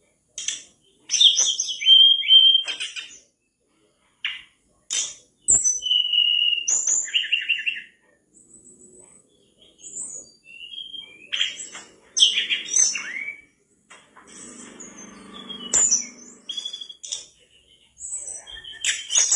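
Tledekan bakau (mangrove blue flycatcher) singing hard: bursts of clear whistled notes, quick chirps and short fast trills with brief pauses between phrases.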